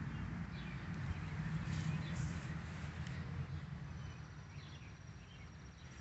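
Small birds chirping in short falling calls, over a low fluttering rumble of outdoor noise that fades toward the end.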